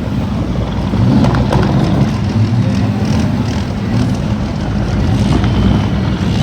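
Semi-truck diesel engines running loud and steady, swelling a little now and then.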